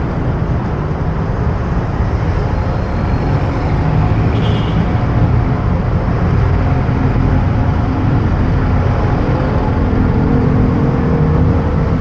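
Heavy wind rumble buffeting the microphone of a moving motor scooter, over the scooter's engine running steadily and road traffic.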